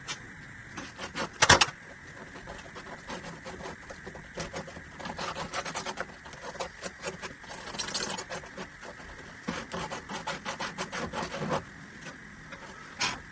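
Plastic drain pipes and fittings being handled and worked together: irregular scraping, rubbing and small knocks, with a sharp cluster of knocks about a second and a half in.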